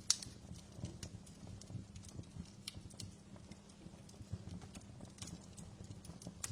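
Wood fire crackling, with irregular sharp pops over a low, soft rumble of the burning logs; the loudest pop comes just after the start.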